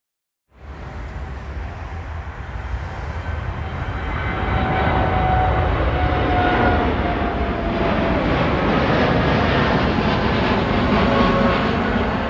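Jet airliner engines running loud, starting suddenly about half a second in and growing louder over the next few seconds, a deep rumble with a whine that slowly falls in pitch.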